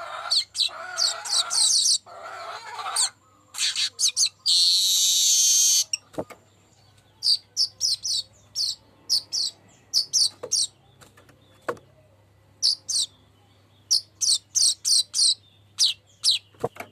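Weaver bird singing: a harsh, dense chatter at first, a long loud buzzy wheeze about four seconds in, then a run of quick high chirps in bursts.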